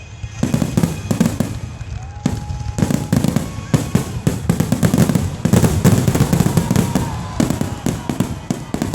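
Aerial fireworks bursting in a rapid, nearly continuous barrage of bangs and crackles.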